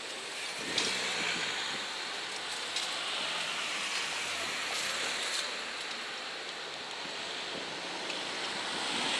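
Steady rushing of road traffic at the level crossing, tyre noise swelling about a second in, easing off, then building again near the end.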